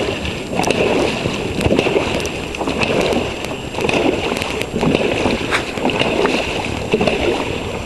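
Dragon boat paddles catching and pulling through the water in unison, a splash and swish about once a second.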